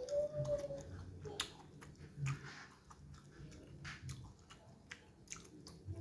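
Close-miked chewing of a mouthful of noodles: soft, wet chewing with sharp mouth clicks every second or so.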